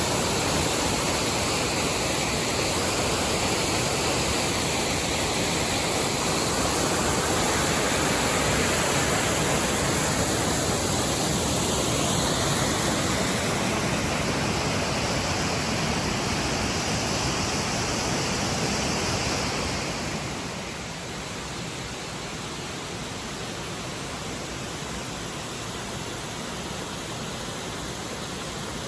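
Waterfall: a steady rush of falling water, which drops somewhat in level about twenty seconds in.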